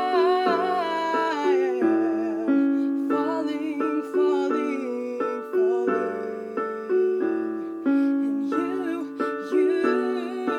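Piano chords played under a singing voice that holds long notes with vibrato, as part of a slow original song.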